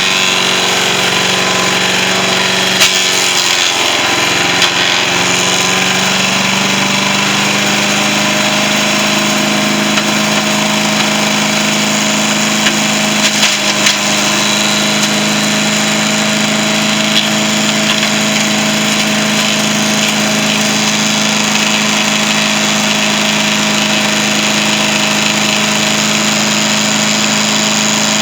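Yard-Man SC8 wood chipper's Tecumseh engine running steadily at speed. Its pitch sags and recovers a few seconds in, and there are a few sharp knocks, with a cluster about halfway through.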